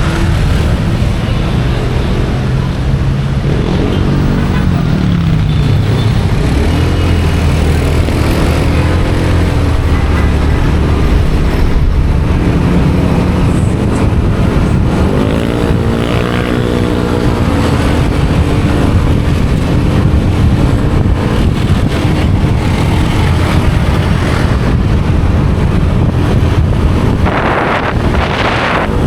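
Motorcycle engine running under way, its pitch rising and falling several times as the bike speeds up and slows, over steady road and traffic noise.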